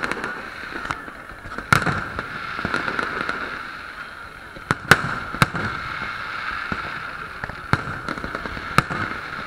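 Aerial fireworks shells bursting in sharp bangs, about six of them, the loudest about five seconds in, over a steady background of crowd voices.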